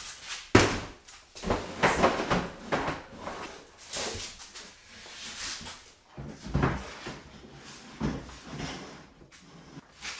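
A large storage bin being slid along the wooden 2x3 rungs of a homemade bin rack: repeated scraping and knocking, with a sharp knock about half a second in.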